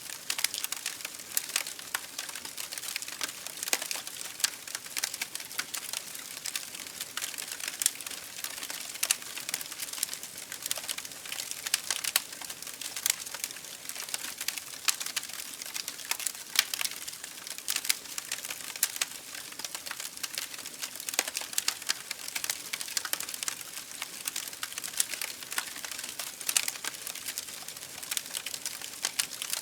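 Campfire burning, with a steady hiss and many irregular sharp crackles and pops from the wood.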